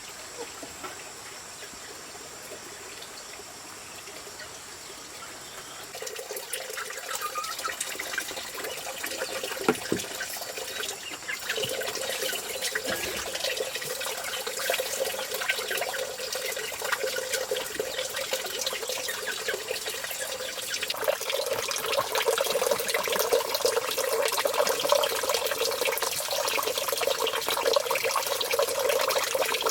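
Running, splashing water, starting about six seconds in and growing louder around twenty seconds in, with many small spattering ticks.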